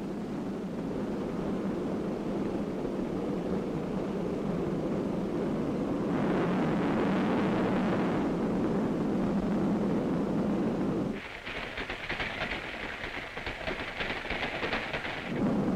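Diesel-hauled goods train running along the track: a steady rumble that swells briefly partway through, then about eleven seconds in changes abruptly to a higher, rapid clatter of wheels on rails.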